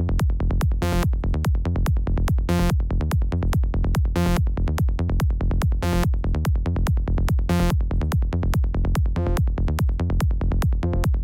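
Electronic psytrance music: a fast, even rolling bass pulse over a steady kick, with a bright synth hit about every second and a half that drops out near the end.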